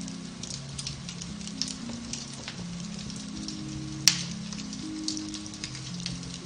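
Beech-wood fire in a fireplace crackling with many small snaps and one loud pop about four seconds in, over soft music with long held low notes.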